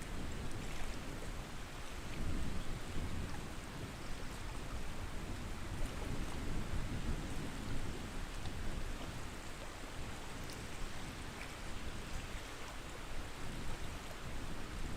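Lakeside water and wind: a steady rushing noise with a low rumble of wind on the microphone that swells and eases every second or two.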